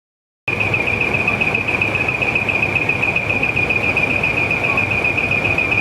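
Truck engines running with a steady low rumble under a high, rapidly pulsing beep-like tone, starting after a moment of silence about half a second in.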